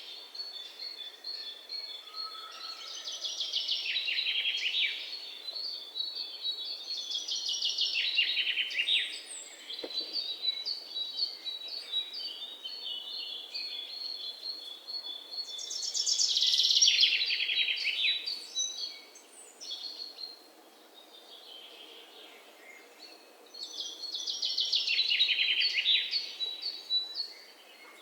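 Birdsong: a fast, falling trilled phrase repeated every few seconds, over a thin steady high tone.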